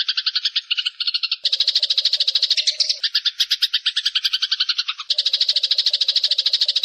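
Eurasian tree sparrow chirping in a fast, unbroken chatter of short notes, about ten a second. The chatter changes abruptly in pitch pattern a few times, as in a spliced recording.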